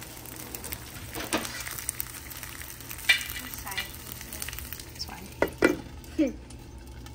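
Fried rice with sausage and melting mozzarella sizzling and crackling in a hot nonstick frying pan. Near the end a few sharp knocks come as a glass lid is set over the pan, and the high sizzle becomes duller after it.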